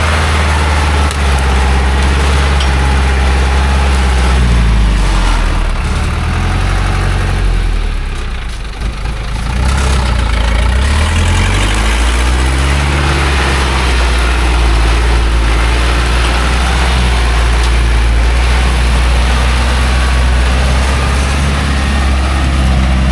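Loaded small logging truck's engine labouring up a muddy slope, running steadily. Its revs dip and then climb again between about four and thirteen seconds in.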